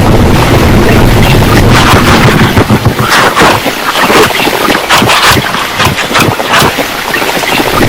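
Storm noise: heavy rain and gusting wind, loud and continuous. A low rumble fills the first couple of seconds, then gives way to brighter, crackling spatters and gusts.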